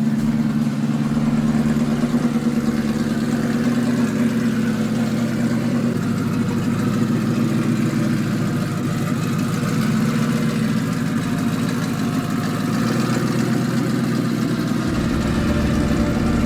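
Ford F-150 pickup's engine running at a steady idle, with a fast, even pulsing note.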